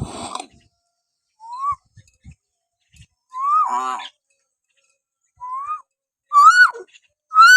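Hill myna whistling: about five short whistled notes a second or two apart, each rising in pitch, the later ones ending in a steep drop, with one harsher, buzzier note about three and a half seconds in.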